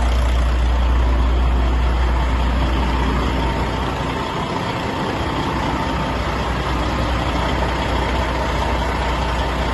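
DAF truck diesel engine idling steadily with a deep, even rumble; the seller presents it as being in perfect working order.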